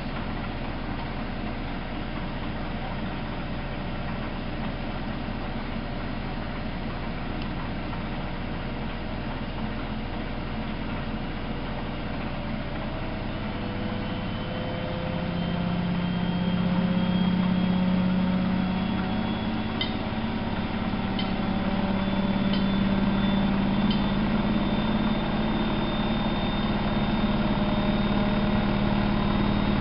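Miele Novo Super W933 washing machine running with a steady hum; about halfway through, its motor speeds up, the hum rising in pitch and getting louder before holding steady.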